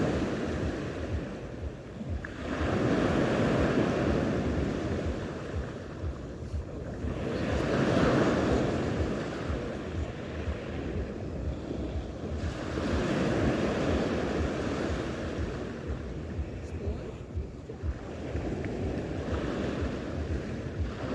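Sea waves breaking on the shore, surging and falling back about every five seconds, with wind buffeting the microphone.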